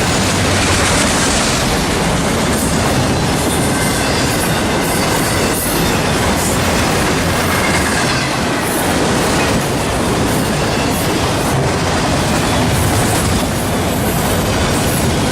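Railroad cars of a Norfolk Southern train rolling past, with wheels clattering over the rail joints and a faint wheel squeal.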